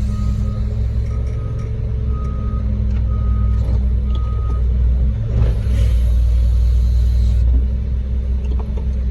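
Truck engine running steadily while a backup alarm beeps about once a second; the beeping stops about halfway through. A hiss of air follows for about two seconds.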